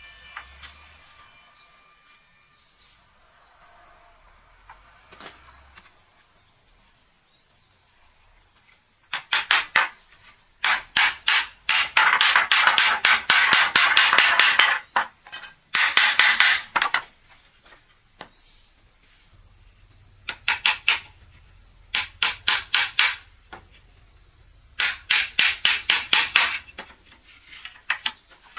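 Hammer blows on wood in quick runs of several strokes a second, broken by short pauses, starting about a third of the way in.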